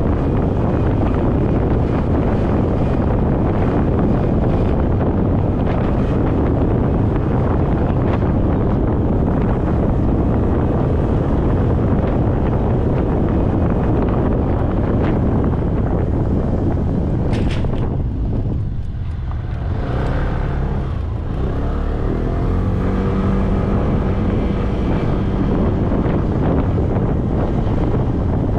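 Heavy wind rush on an action-camera microphone on a moving motorcycle. About two-thirds of the way in, the wind eases briefly and the motorcycle's engine note comes through.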